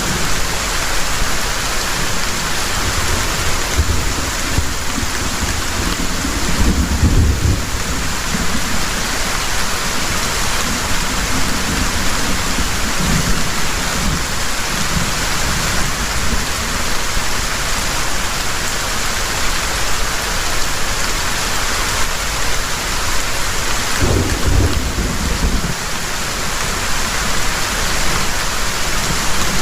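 Heavy rain falling steadily, with a low rumble of thunder about seven seconds in and another near the end.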